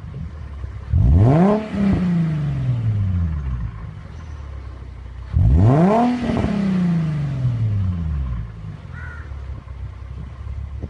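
Infiniti G35's VQ35HR 3.5-litre V6 through a Magnaflow aftermarket exhaust, blipped twice from idle: each rev climbs sharply, then falls slowly back down. It settles to a steady idle near the end.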